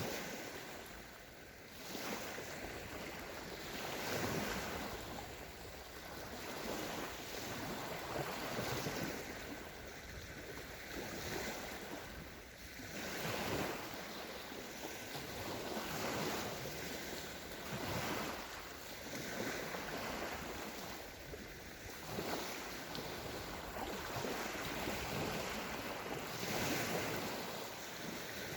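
Sea waves breaking and washing up a sandy beach, a fresh surge swelling and fading every few seconds.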